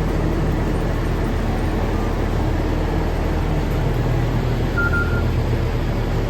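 SMART diesel multiple unit's engines idling while the train stands at the platform, a steady low hum. A short high electronic beep sounds about five seconds in.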